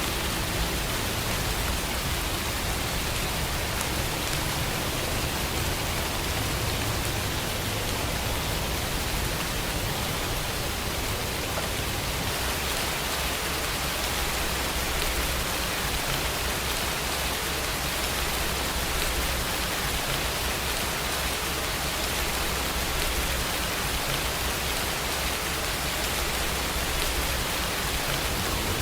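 Steady rain falling, an even, continuous hiss with no breaks.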